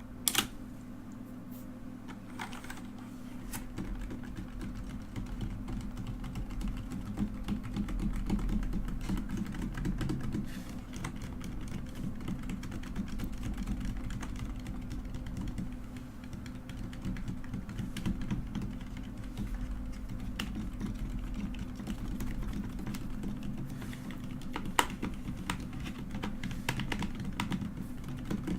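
Mechanical keyboard keys clacking under the fingers: a quick run of sharp clacks at the start, then scattered quieter key presses. A steady low hum runs underneath throughout.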